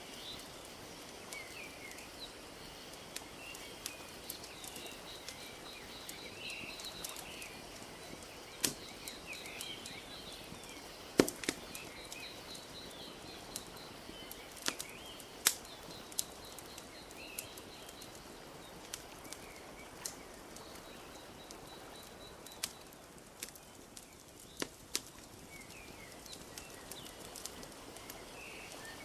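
Wood fire crackling with scattered sharp pops, the loudest about eleven and fifteen seconds in, over a steady wash of gently lapping lake water. Small birds chirp here and there.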